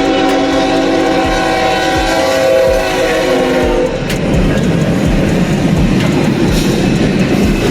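Train horn sounding a loud, steady chord of several notes, cutting off about four seconds in, followed by the steady noise of a train running past.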